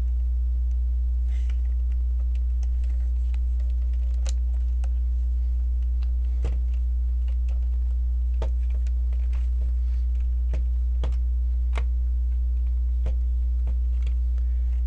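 Plastic LEGO bricks and plates clicking as they are handled and pressed together, a scattering of small sharp clicks at irregular intervals. Underneath runs a steady low electrical hum, the loudest thing throughout.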